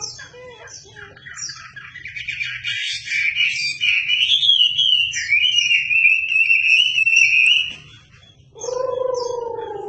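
Wambi songbird singing: a few short chirps, then a long, loud, wavering high warble lasting several seconds. Near the end, after a brief pause, comes a lower note that slides down in pitch.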